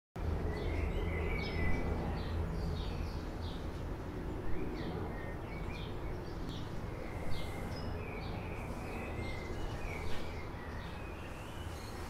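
Small birds chirping in short, repeated downward notes, with thin higher calls now and then, over a steady low background rumble.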